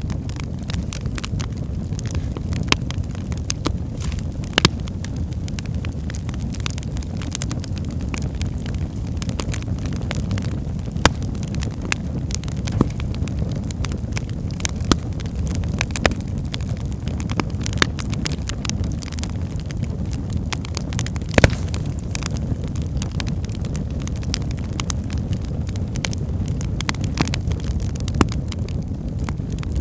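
Wood fire burning in a fireplace: a steady low rumble of flames with a constant scatter of sharp crackles and pops from the burning logs, a few of them louder.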